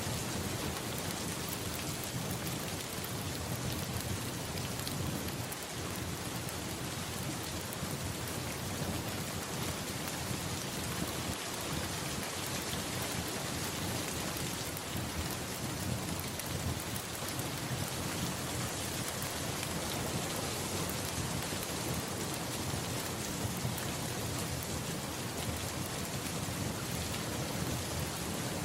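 Steady rain pattering on a surface, with a low rumble of distant thunder underneath that swells and fades.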